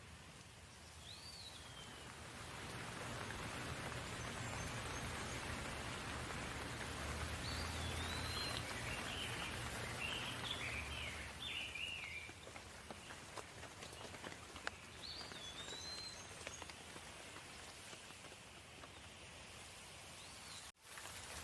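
Steady rain falling, growing heavier a couple of seconds in and easing off after about twelve seconds, with short bird chirps now and then. The sound drops out for an instant near the end.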